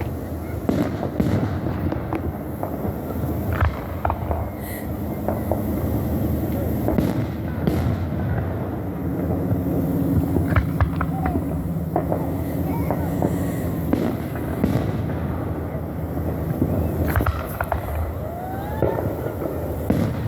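Aerial fireworks going off: repeated sharp bangs and crackles, spaced irregularly over a continuous low rumble of explosions.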